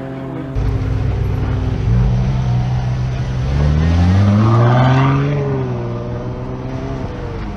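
Sports car engine accelerating hard: its pitch climbs for about two and a half seconds, reaches its loudest about halfway through, then drops back to a steadier note.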